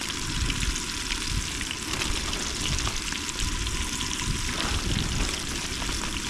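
Breaded catfish nuggets frying in hot oil: a steady crackling sizzle with tiny pops throughout, over a low rumble.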